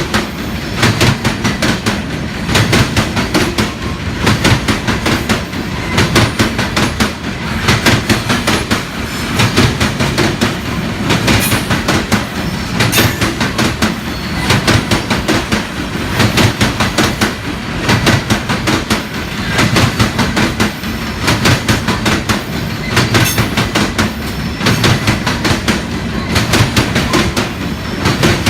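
Freight cars of a Union Pacific gravel train rolling past, their wheels clacking over the rail joints in a steady repeating rhythm over a continuous rumble.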